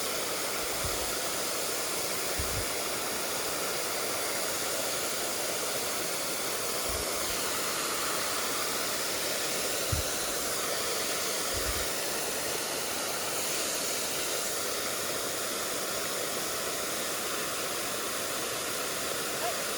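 Valley stream water rushing, a steady even hiss, with a few faint low bumps.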